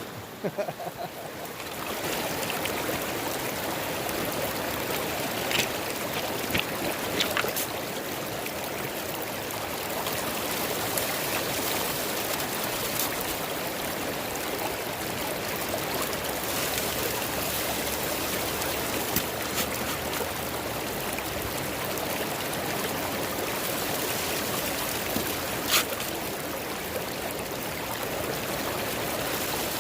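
Steady rush of a river's flowing water, with a few short clicks or knocks standing out over it.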